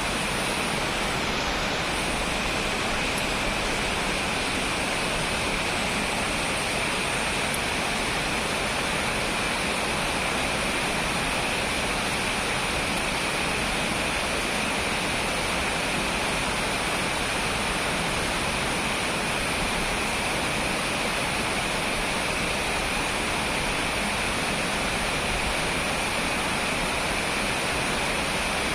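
Heavy rain falling steadily in a thunderstorm, an even hiss with no thunder claps.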